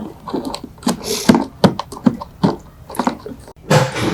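Irregular light knocks and clicks of hand work on a workpiece, ending with a rough scraping rub near the end.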